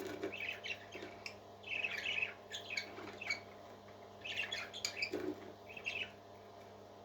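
Parrot chirps and squawks in three short bouts of quick calls, falling quiet about a second before the end, over a faint steady hum.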